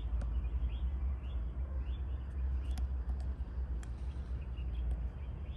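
Birds chirping, short high calls repeating about every half second, over a steady low rumble.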